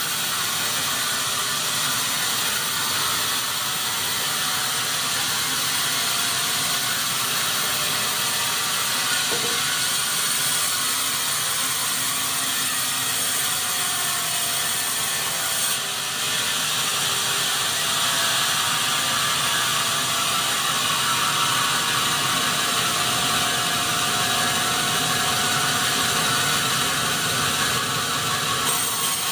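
Sawmill machinery running, a steady, hissing mechanical noise with a brief dip about halfway through.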